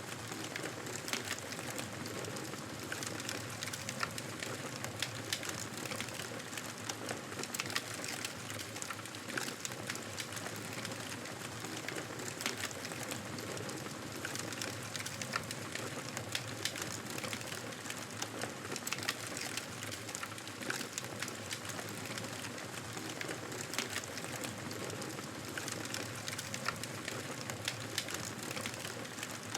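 Wood fire burning in a fireplace: a steady hiss of flames with frequent sharp crackles and pops.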